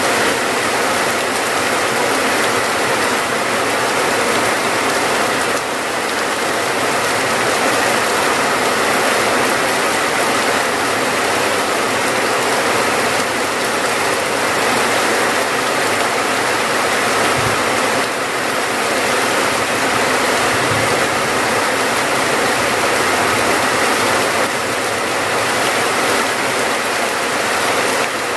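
Steady rain falling, a dense even hiss that carries on without a break.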